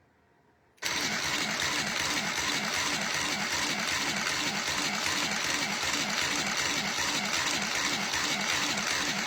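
So Crafty mini sewing machine starting up about a second in and then running steadily, stitching through paper with a fast, even whirring rhythm.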